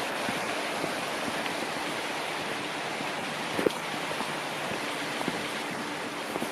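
Steady rushing water of a mountain stream, an even hiss without change, with one sharp click about halfway through.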